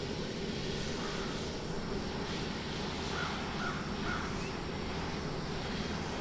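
A bird calling three times in quick succession about three seconds in, each call short, over a steady background noise with a low hum.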